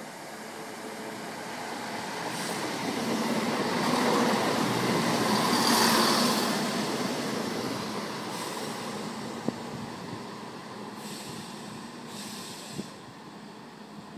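Class 170 Turbostar diesel multiple unit passing through the station. Its engine and wheel noise grows louder as it comes in, is loudest around halfway, then fades as it goes away. Two sharp clicks come late on.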